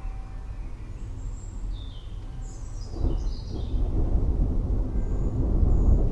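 Rolling thunder rumbling low and growing louder about three seconds in, with a few birds chirping in short falling notes.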